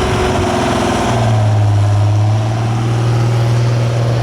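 Super stock pulling tractor's engine running loud and steady, with a strong low hum that settles about a second in.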